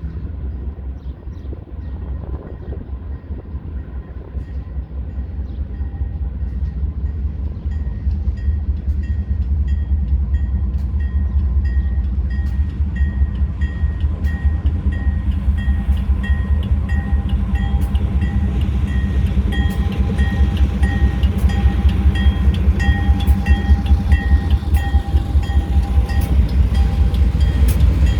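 Pan Am Railways freight train rumbling closer and passing, with wheel clicks over the rail joints growing louder and more frequent. A repeated high-pitched ringing sounds throughout.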